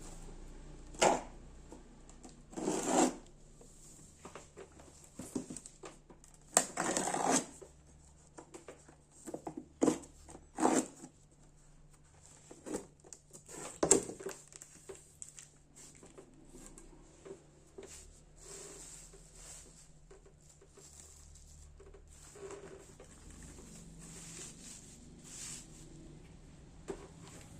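Packaging of a laptop LCD panel being handled and opened: irregular rustles, taps and clicks, with a few louder rustling bursts spread through.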